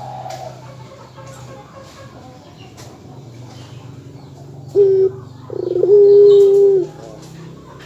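Dove cooing: a short steady coo about five seconds in, then a longer held coo on the same pitch, over a low steady hum.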